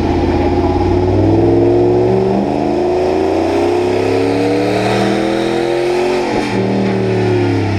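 A turbo diesel pickup's engine is under load on a chassis dyno. Its pitch climbs steadily for several seconds, drops suddenly about six and a half seconds in at a shift or let-off, then winds down.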